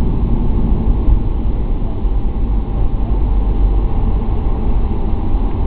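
Jet airliner's engines and airframe during takeoff: a loud, steady low rumble with a faint steady whine above it.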